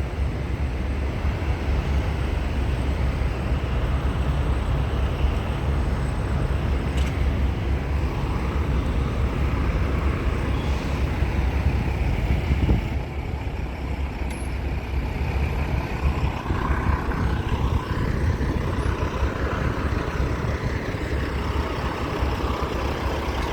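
Steady low rumble of heavy trucks in a truck-stop parking lot.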